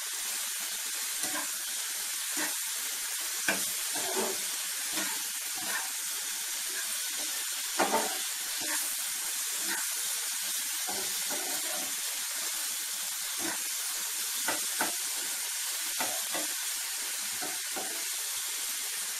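Chicken and vegetables sizzling in a nonstick frying pan as they are stir-fried, a steady hiss with occasional scrapes and knocks of the spatula against the pan.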